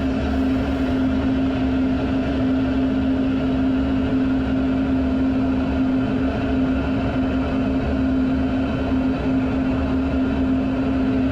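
Fighter jet's steady drone, with a constant low hum over an even rush of noise that holds without change in pitch or level.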